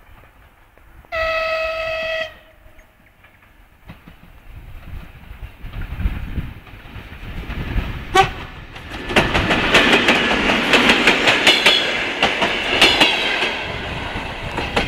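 A TEP70BS diesel passenger locomotive sounds one short horn blast about a second in. Then it and its suburban coaches draw near and run past, growing louder, with wheels clicking over the rail joints, loudest in the last few seconds.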